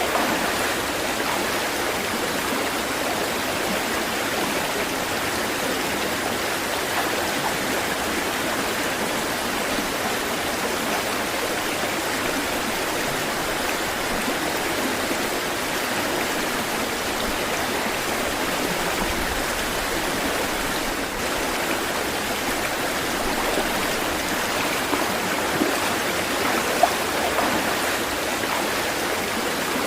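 Running water rushing steadily and evenly, with no rise and fall of surf.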